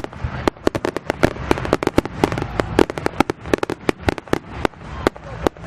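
Aerial fireworks going off in a rapid, irregular barrage of sharp cracks and bangs, several a second, over a low rumble.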